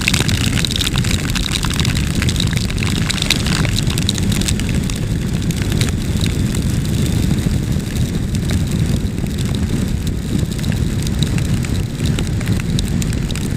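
Adventure motorcycle riding in heavy rain: steady wind rush and engine and road rumble, with rain ticking against the microphone.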